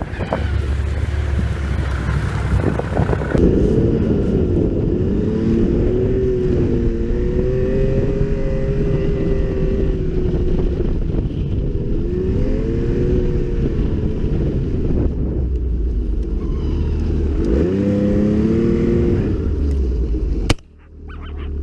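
Snowmobile engine running under way, its pitch rising and falling several times as the revs change. The sound cuts off abruptly near the end.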